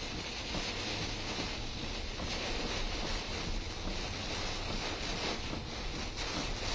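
Heavy rain and strong wind: a steady, even hiss of downpour with wind rumbling on the microphone.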